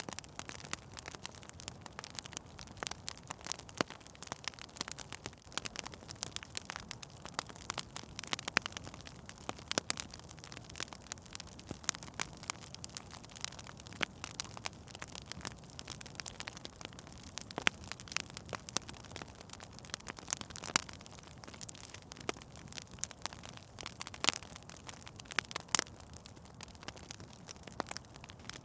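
Wood fire in a fireplace crackling steadily, with many irregular sharp pops and snaps over a soft hiss.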